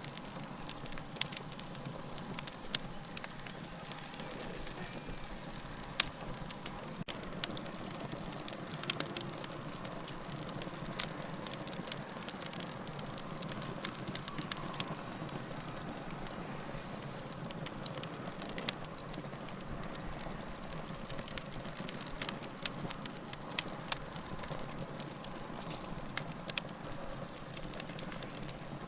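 Wood fire crackling and popping: frequent small irregular pops over a steady hiss of burning.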